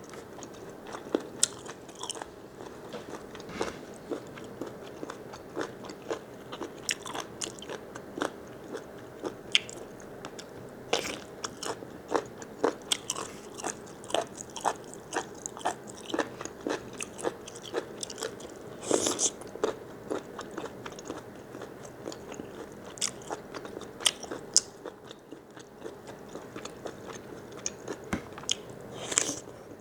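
Close-up chewing and biting of a large cooked squid: a steady run of irregular wet clicks and crunches, with a few louder bites about 11, 19 and 29 seconds in.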